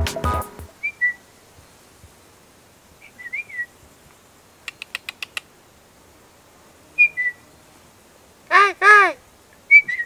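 Birds calling: short whistled chirps every couple of seconds, a quick run of six ticks near the middle, and two louder arching whistled calls near the end.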